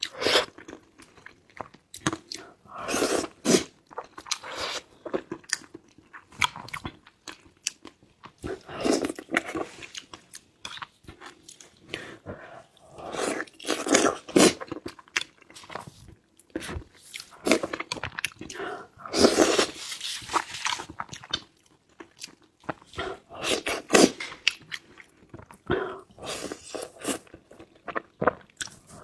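Close-up eating sounds: biting and chewing food with crunching, in irregular bursts of clicks and crackle.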